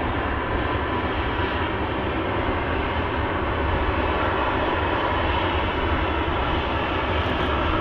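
Jet airliner engine noise: a steady rush with a faint high whine.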